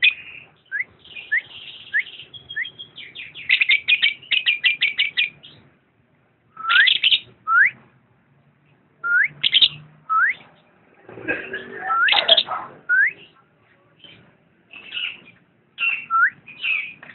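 Lovebird chirping: quick runs of sharp, high chirps broken by short rising whistled notes, with a denser burst of chattering about two-thirds of the way through.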